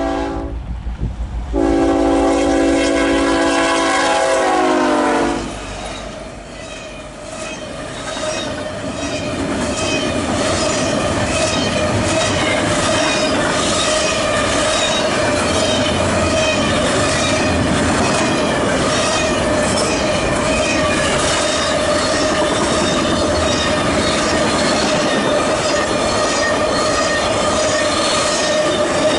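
BNSF freight train's multi-chime diesel horn sounding for a grade crossing: a short toot, then a long blast that drops in pitch as the locomotives pass. Then the double-stack intermodal cars roll by with steady rail noise, even clickety-clack from the wheels and a steady ringing wheel squeal.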